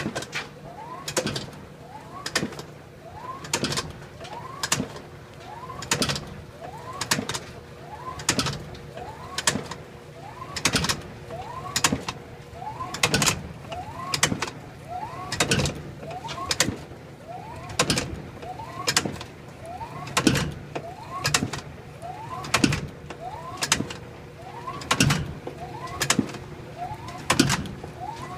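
GE Profile washing machine running a load with a loud repeating noise, a short rising squeal ending in a sharp knock a little less than once a second, over a steady hum. It started after the belt and motor were replaced.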